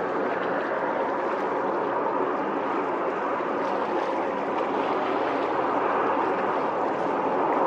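Steady rushing noise of strong wind, with a faint low hum underneath.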